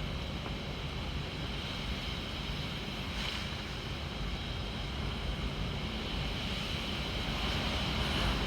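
Typhoon wind blowing hard and steadily, with a low rumble of gusts buffeting the microphone, growing slightly louder near the end.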